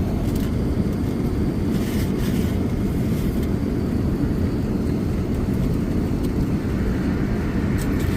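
Steady low rumble of cabin noise aboard an Airbus A380 in flight, with a few faint light clicks.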